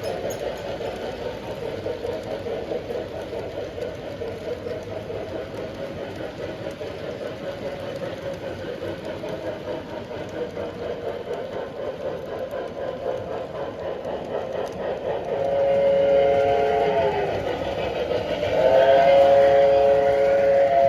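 Model train running on its track with a steady rolling rumble and motor hum. About fifteen seconds in, its whistle sounds twice, a chord of several tones together; the second blast is louder and runs longer.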